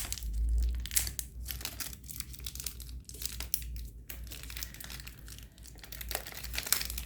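Crinkling and tearing of the wrapper on a new disposable syringe needle as it is pulled at, the packet resisting and not tearing open easily, in irregular crackles.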